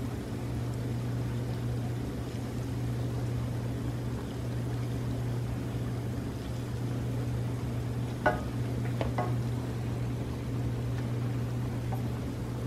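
Battered quail eggs (kwek kwek) frying in shallow oil in a pan, over a steady low hum. A spatula clicks against the pan a few times about eight and nine seconds in.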